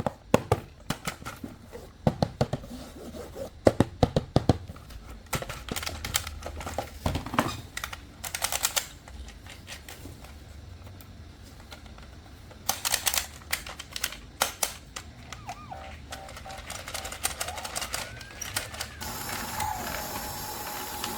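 Plastic toys and packaging being handled: irregular clicks and taps with a few short rustles. Near the end a steady whirring with a thin tone starts up.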